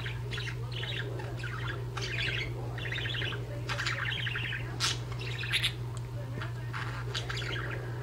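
Budgerigars chattering in a fast, unbroken string of short chirps and warbles, with a couple of sharper, louder chirps about five seconds in, over a steady low hum.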